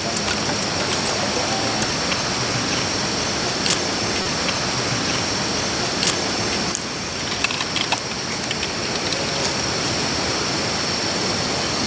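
A steady rushing noise, with high insect buzzing that comes and goes above it and a few faint clicks.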